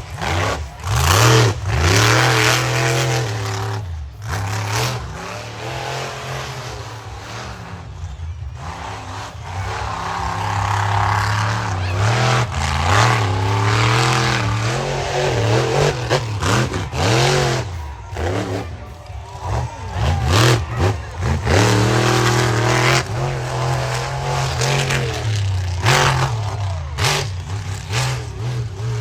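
Monster truck engine revving hard and unevenly under full throttle in a freestyle run: the pitch repeatedly climbs and falls, with several sudden throttle cuts and re-applications.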